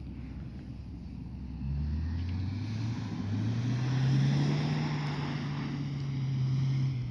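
Car engine revving hard on snowy ice: its pitch climbs about three seconds in and stays high for several seconds before dropping near the end. Wind rumbles on the microphone before the engine comes up.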